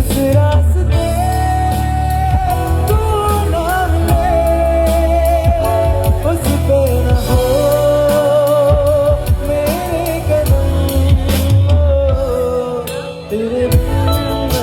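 A band playing a Hindi pop love song: a long, wavering lead melody held over a steady bass line.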